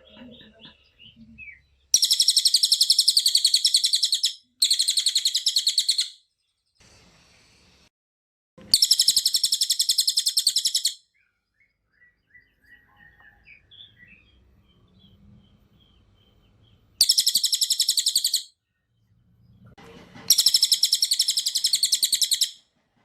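A cililin songbird singing in rapid-fire bursts: five loud, dense, high-pitched chattering trills of about two seconds each, separated by short pauses filled with faint soft chirps.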